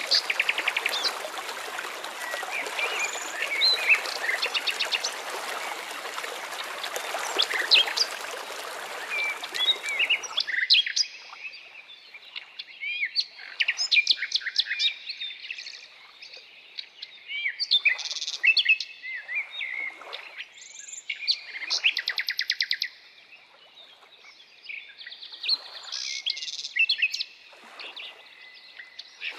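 Birds chirping and singing, many short calls and quick trills overlapping. For about the first ten seconds a steady rushing hiss lies under the birdsong, then cuts off suddenly, leaving the birds on a quiet background.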